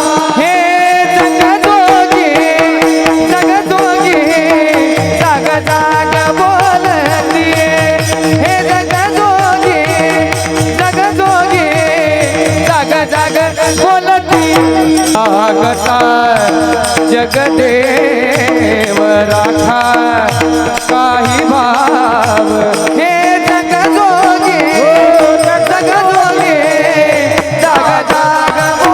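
Marathi varkari kirtan singing: a male kirtankar sings a devotional melody with wavering, ornamented notes over a steady held drone and a hand-drum rhythm.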